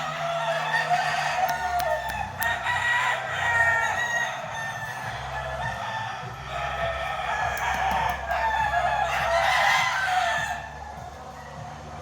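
Roosters crowing again and again, the calls following close on one another, until they die down about ten and a half seconds in.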